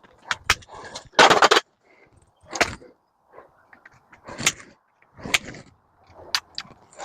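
Hand tools knocking and prying at metal and plastic parts while an appliance is stripped for scrap: a string of separate sharp clicks and knocks, with a loud clatter about a second in.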